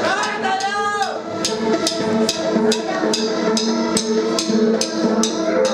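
Live band starting a song: a drummer ticks a steady beat about two and a half times a second, starting about a second in, over held, sustained chords.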